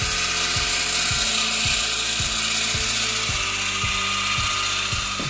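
Wood-processing machinery running steadily: a constant high hiss with a regular low knock about twice a second.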